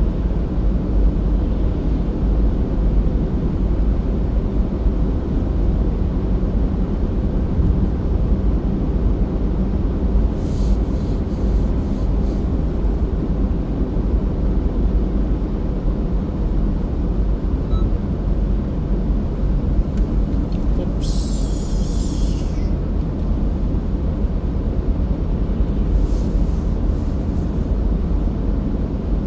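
Steady low rumble of a car driving, road and engine noise as heard from inside the vehicle, with a few brief higher hissing sounds about a third, two-thirds and nine-tenths of the way through.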